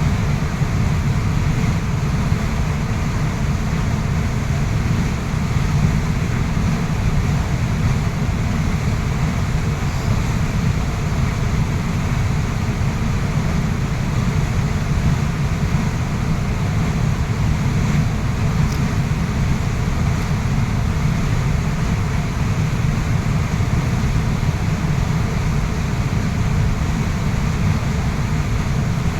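Waterfall rushing steadily: a constant, even wash of falling water, heaviest in the deep low end.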